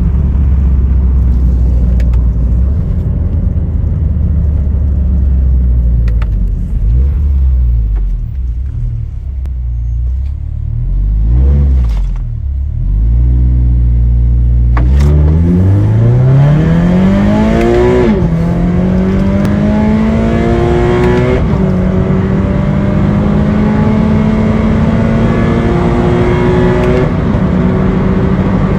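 Stage 2 tuned Toyota GT86's 2.0-litre flat-four engine (about 240 hp) running steadily at low revs for the first half, then accelerating hard at full throttle. The revs climb, drop sharply at an upshift, climb again, and shift twice more, while road and wind noise builds with speed.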